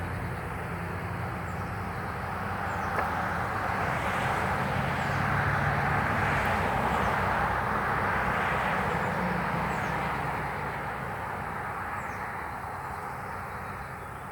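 A passing vehicle's rushing noise that swells over a few seconds, holds, then fades away.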